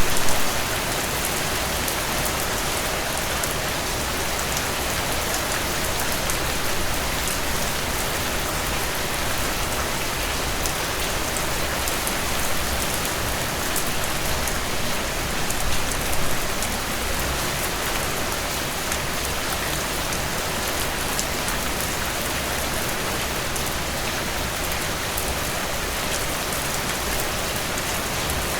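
Heavy rain drumming on a tin roof: a steady dense hiss with scattered sharp drop ticks, swelling briefly at the start and again about halfway through.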